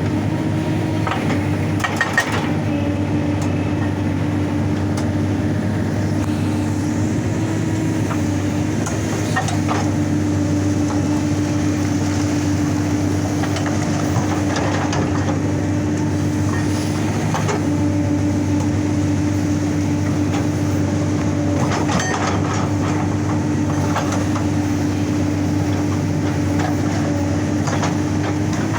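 Excavator's diesel engine running steadily under load, with a few scattered sharp knocks of steel on rock.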